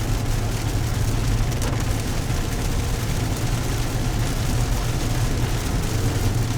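Steady car cabin noise: a low engine and road drone with an even hiss over it.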